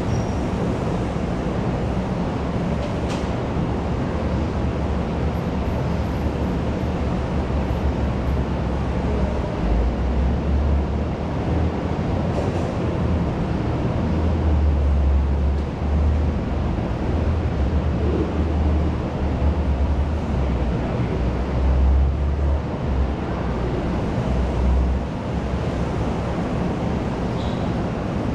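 Canteen room ambience: a steady, dense wash of noise with no distinct voices, and a low rumble that swells and ebbs through the middle.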